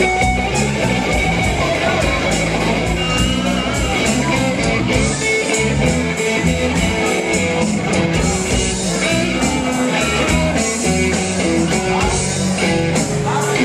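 A live blues power trio plays, with an electric guitar lead bending notes over bass guitar and drums.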